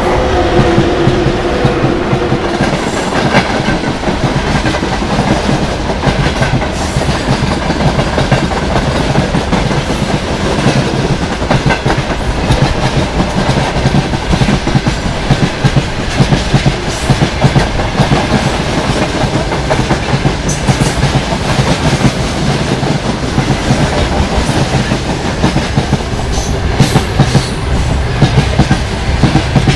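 Freight train wagons rolling past close by behind a VL80T electric locomotive: a steady clickety-clack of wheels over the rail joints with frequent sharp knocks and clanks. The locomotive's hum fades in the first couple of seconds as it goes by.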